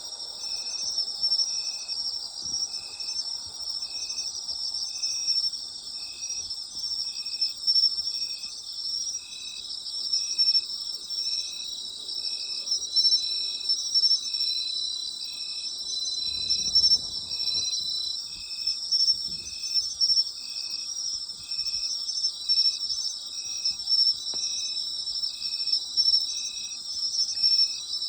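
Night chorus of autumn insects: a dense high trilling, and over it one insect calling in a steady rhythm of about three chirps every two seconds.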